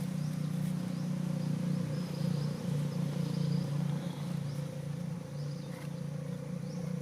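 A motor running steadily with a low, even hum. Faint high chirps sound over it.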